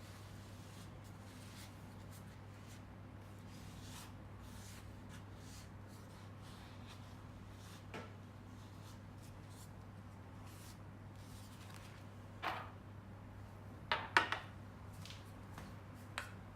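A steady low hum, with a few short clicks and knocks from something being handled: one about halfway through and a small cluster near the end.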